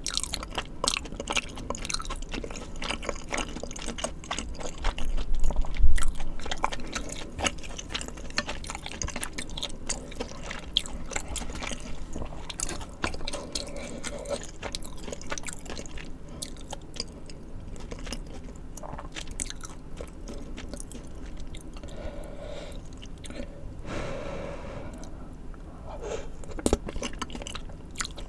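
Eating sounds: crunching and wet chewing of spicy tteokbokki rice cakes and fried foods, with a quick run of crisp clicks that is densest and loudest in the first dozen seconds, then sparser chewing.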